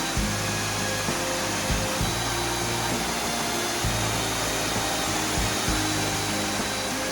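Steady rushing of a waterfall, with soft acoustic background music over it.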